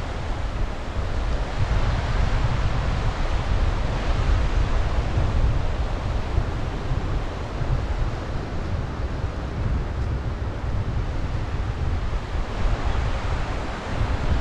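Sea surf washing steadily on the shore, with wind buffeting the microphone in a low, fluttering rumble.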